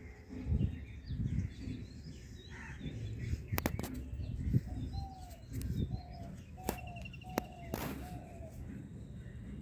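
A bird calling in the background, a run of short, slightly falling notes in the second half, over low rustling thumps and a few sharp clicks.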